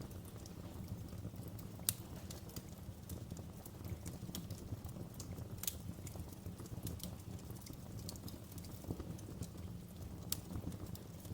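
Fire in a fireplace crackling: a steady low rumble of flame with scattered sharp pops, the loudest about two seconds in and again near the end.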